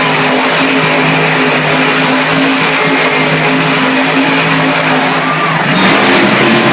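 Monster truck engine running loud under the arena's echo, its pitch holding steady, then dropping and climbing again as it revs near the end.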